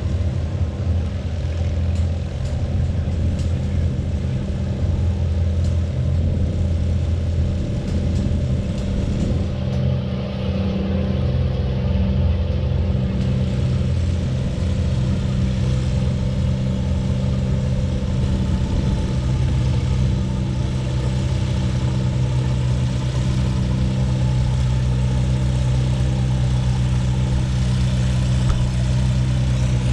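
Antique farm tractor engine running steadily under load, pulling the weight sled in a tractor-pull hook.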